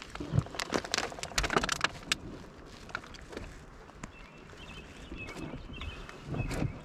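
Small birds giving short, high chirps several times, over a spell of irregular knocks and clatter in the first couple of seconds.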